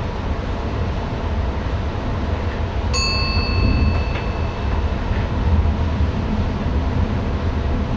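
NS ICM electric intercity train heard from the driver's cab, running with a steady low rumble. About three seconds in, a single bright bell-like ding rings out and fades within about a second.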